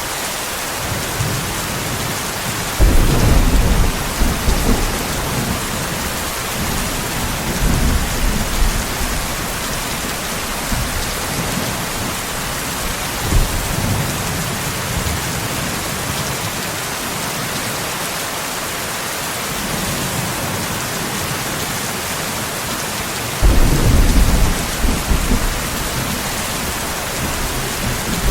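Steady heavy rain hissing, with rolls of thunder rumbling over it: a strong roll about three seconds in, smaller ones around eight and thirteen seconds, and another strong roll near the end.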